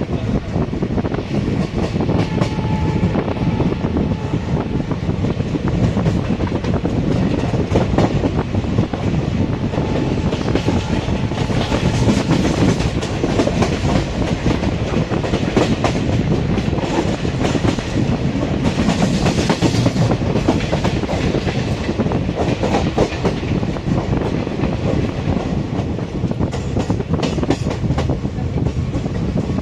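Passenger train running fast, its wheels clattering steadily over the rail joints with continuous rumbling noise.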